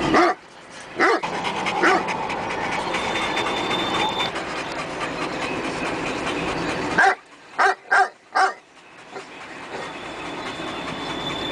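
A dog barking in short single barks: three in the first two seconds, then a quick run of four about seven seconds in. A steady background noise lies under the barks.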